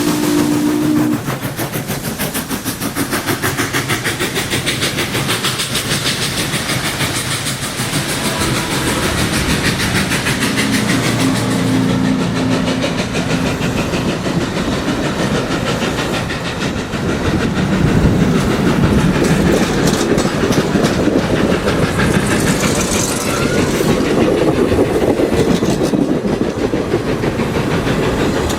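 Norfolk & Western 4-8-4 steam locomotive 611 running with a train, with fast, even exhaust beats and rail clatter. Its whistle sounds a chord until about a second in, then again at a lower pitch around ten seconds in.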